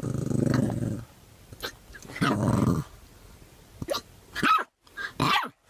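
A dog barking and growling: two long, low barks, then a few short sharp ones near the end.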